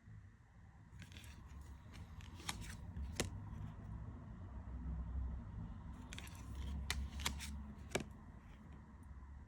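Tarot cards of rider-weight, lightly glossy cardstock being handled and turned over one by one, with a few sharp snaps of card and brief rustles.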